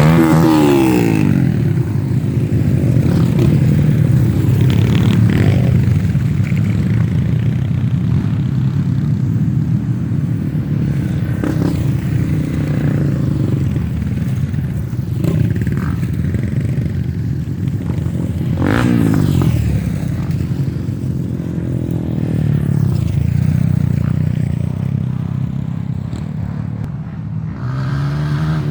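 Off-road trail motorcycle engines running continuously. The engine note swings up and down as the throttle opens and closes, with a falling sweep near the start and another about two-thirds of the way through, over some rattling.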